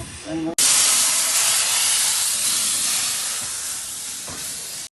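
Steam hissing loudly from the narrow-gauge steam locomotive 'Sir Haydn' (Talyllyn Railway No. 3), starting suddenly about half a second in and slowly easing off.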